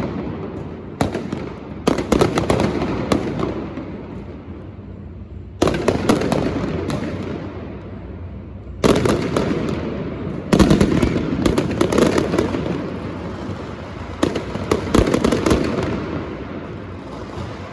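Fireworks going off: repeated clusters of sharp crackling bangs every few seconds, each trailing off in a long rumbling echo.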